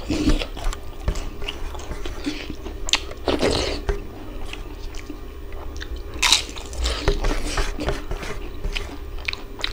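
A person chewing mouthfuls of mutton curry and rice close to a clip-on microphone: irregular wet smacks and crunches, with a few louder bites. Fingers squish through curry-soaked rice on the plate between mouthfuls.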